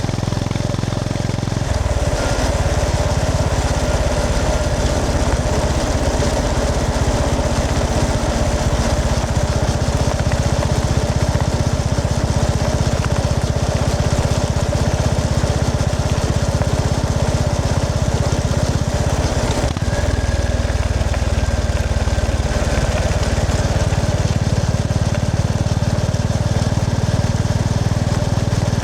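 Honda GB350S's air-cooled single-cylinder engine running under way, a steady low exhaust note. Its pitch shifts about two seconds in, and there is a short break in the sound about two-thirds of the way through.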